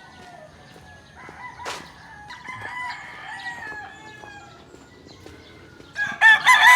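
Roosters crowing: fainter crows through the middle, then one loud crow near the end. A single sharp click about two seconds in.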